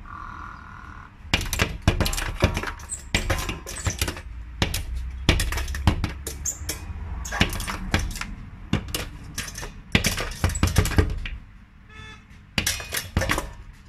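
Rapid, irregular clicking and clattering of small hard objects knocking together, in dense runs broken by a short pause. A brief tone sounds near the start and another near the end.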